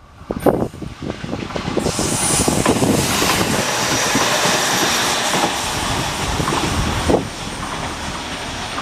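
A 701 series electric train runs past on a curve, its wheels clattering over the rail joints with a thin, high flange squeal. The sound builds about two seconds in and eases after about seven seconds.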